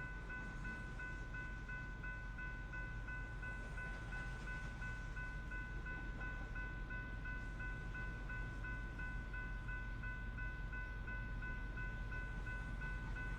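Railroad grade-crossing bell ringing steadily, about three strikes a second, over the low rumble of a coal train rolling past.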